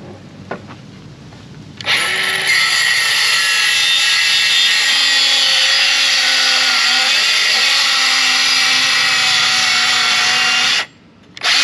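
Milwaukee M12 cordless circular saw starting about two seconds in and running steadily as it rips a board lengthwise. It stops briefly near the end, then starts again.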